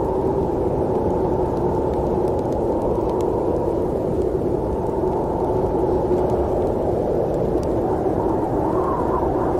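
Steady rumble of a moving train, with a constant low hum under it and a few faint ticks.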